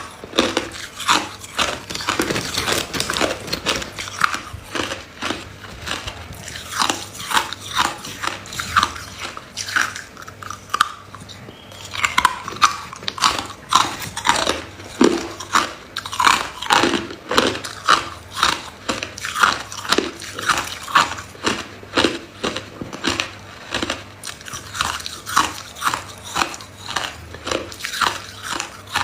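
Hard ice being bitten and chewed close to the microphone: a quick run of sharp, crackling crunches, several a second, with brief gaps between bites.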